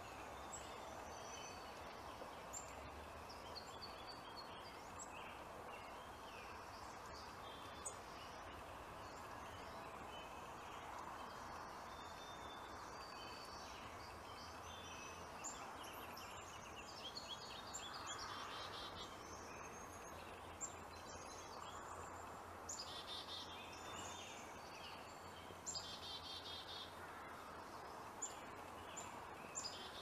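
Small birds chirping and twittering over a steady faint hiss, with several short buzzy trills in the second half.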